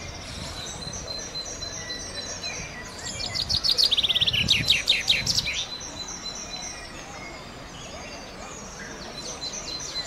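Wild birdsong: short high notes repeated over and over, and about three seconds in a loud, rapid trill of high notes lasting about two and a half seconds.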